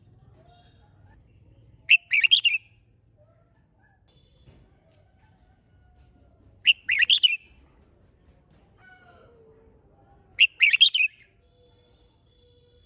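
Red-whiskered bulbul singing its competitive song: three short, loud warbled phrases about four seconds apart, with faint chirps between them.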